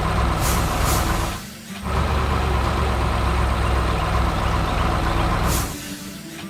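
Heavy construction-vehicle engine running with a deep, steady rumble. It drops out briefly about a second and a half in, runs on, and stops shortly before the end. Short hisses sound about half a second and a second in, and again just before it stops.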